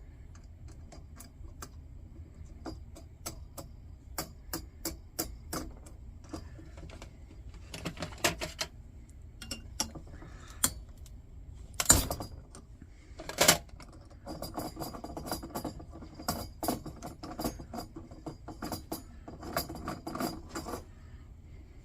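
Small metal lantern parts and hand tools clicking and clinking at a workbench, with two louder knocks a little past halfway and a faster run of clatter near the end.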